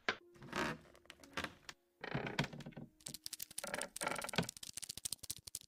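Sound effect of rapid clicking and clattering in several bursts, growing denser and faster in the second half, over a faint steady tone.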